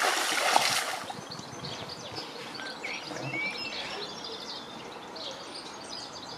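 Small birds chirping and calling over a quiet outdoor background, after a brief rush of noise in the first second.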